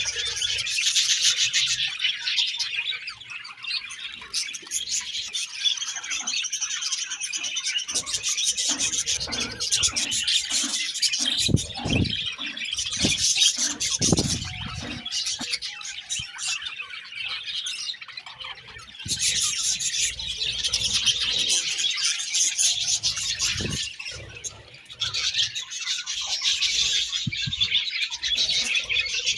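A group of budgerigars chirping and chattering continuously in overlapping warbles, easing off for a few seconds now and then. Scattered low knocks and rustles come through in the middle.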